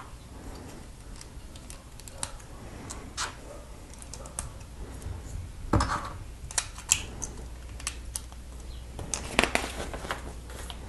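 Plastic Lego pieces clicking and knocking as they are handled and snapped together, in scattered sharp clicks with a louder knock about halfway and a quick cluster near the end.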